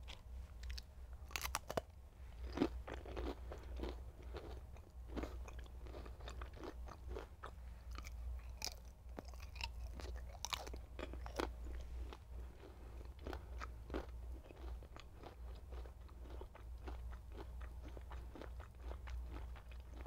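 A person chewing turkey bacon, with many short crunches and mouth clicks throughout, over a steady low hum.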